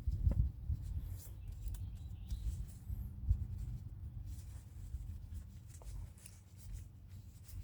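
Faint rubbing and scraping of hands working a paper towel inside a brake caliper's guide-pin rubber boot to clean it out, with a few light clicks over a low steady hum.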